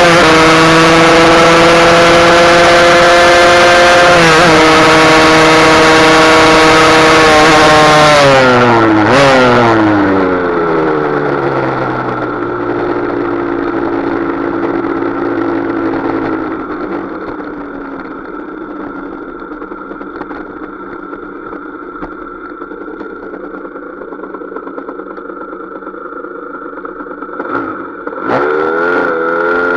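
Husqvarna SM 125 two-stroke single-cylinder motorcycle engine running hard at high revs, with a brief dip about four seconds in. The revs then fall away over several seconds to a low, quieter idle, and near the end the engine is revved up again.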